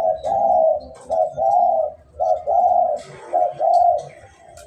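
A dove cooing: four repeated phrases, each a short low note followed by a longer arched coo, about one phrase a second. Faint high chirps and ticks are heard in the background.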